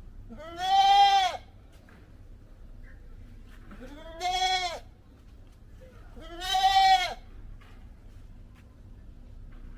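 Goat bleating: three separate calls, each about a second long, rising and then falling in pitch.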